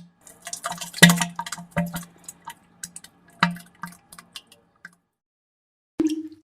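Wet, sputtering fart and diarrhea sound effects: a string of irregular squelchy pops over a low buzz that fades out, then one short burst with a brief tone about six seconds in.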